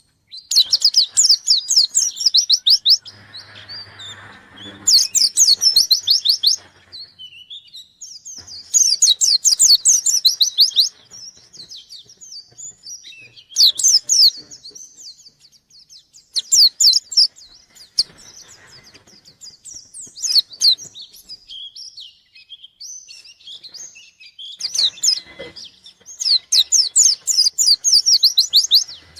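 White-eye (pleci, Zosterops) singing vigorously in bursts of rapid, high trilling song about every three to four seconds, with softer twittering in between.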